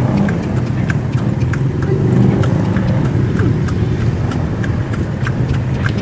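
A carriage horse's hooves clip-clopping on the road at about three strikes a second, over a steady low engine rumble of traffic.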